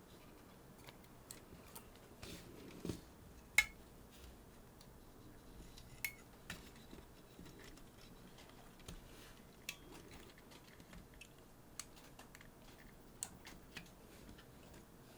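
Faint, scattered light clicks and taps of small parts and hand tools being handled while the Sony HVR-DR60's drive case is put back together, about a dozen in all, the sharpest about three and a half seconds in.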